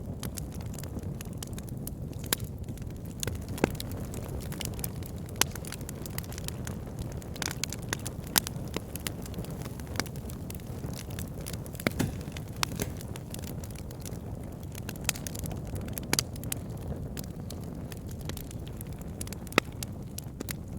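Wood fire burning in a fireplace: a steady low rumble of flames with irregular crackles and sharp pops of burning wood.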